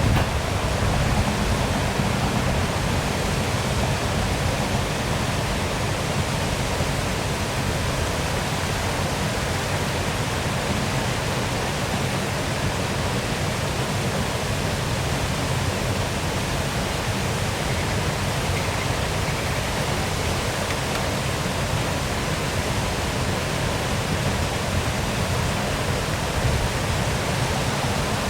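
Waterfall pouring steadily: a constant, even rush of falling water with a deep low rumble under it.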